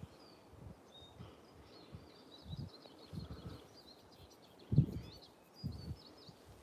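Small birds chirping in quick, high twittering notes, busiest through the middle. A few dull low thumps come through as well, the loudest about three-quarters of the way in.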